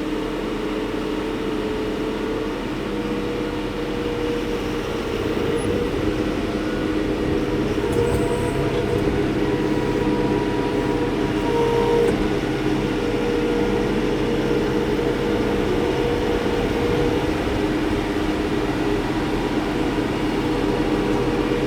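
Diesel engine of a large TYM farm tractor running steadily as it pulls away in first gear, heard from inside the closed cab. The engine note gets a little louder about eight seconds in, then holds.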